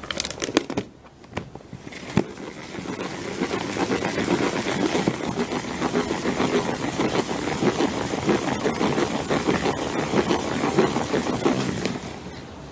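A few plastic knocks as the salad spinner's basket and lid are set in place, then an IKEA Tokig salad spinner spinning wet cloth liners on a spin-dry cycle. Its steady rattling whir builds up over a couple of seconds, runs on, and dies away near the end.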